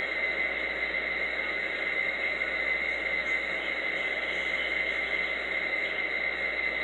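Steady background hiss with a constant high-pitched whine, unchanging, with no other distinct sounds.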